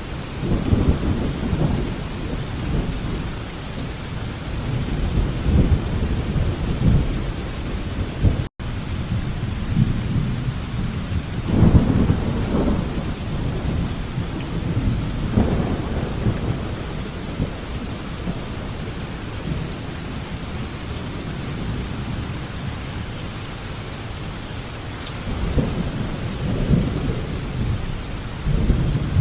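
Thunderstorm: steady rain with rolls of thunder rumbling in several times, loudest about twelve seconds in and again near the end. The sound drops out completely for a split second about eight and a half seconds in.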